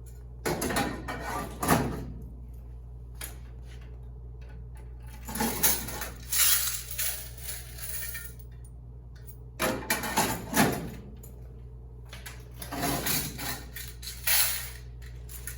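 Loose coins clattering in four separate bursts, like handfuls of quarters being poured or shuffled, over a steady low hum.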